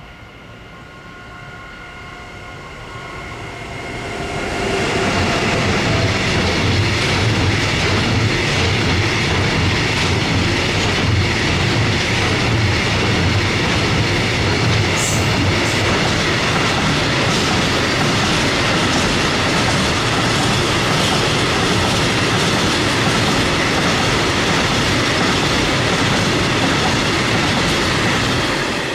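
Long electric-hauled freight train passing close by: it builds up over the first few seconds, then the wagons rumble and clatter steadily for over twenty seconds before it starts to fade near the end.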